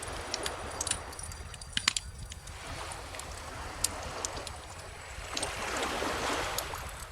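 Wood bonfire crackling with scattered sharp pops, the loudest a pair about two seconds in, over the wash of calm ocean waves; a wave swells up and breaks around six seconds in.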